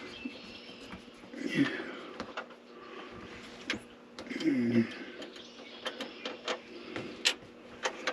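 Scattered small clicks and knocks of hand tools and bolt hardware being handled during electrical work, with a few brief murmured voice sounds.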